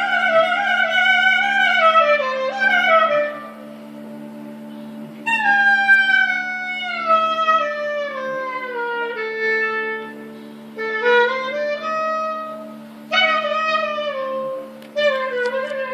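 Instrumental Turkish classical music in makam Hicaz: a clarinet-like woodwind plays a melody in phrases that mostly step downward, over a steady low drone.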